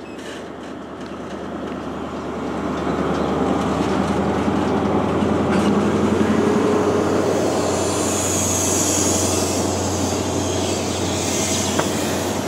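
High Speed Train pulling out under power: a Class 43 power car's diesel engine drones steadily under the rumble of the coaches rolling past. It builds over the first few seconds, then holds.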